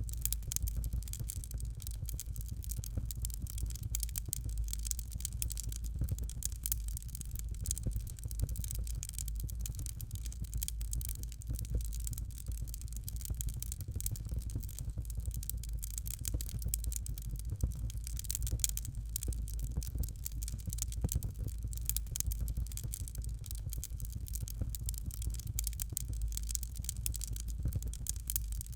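Fire crackling in a fireplace: dense small crackles over a low, steady rumble of the flames.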